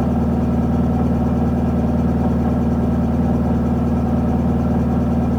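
Isuzu Erga city bus's four-cylinder turbo-diesel engine idling steadily, heard from inside the bus with the bus standing still.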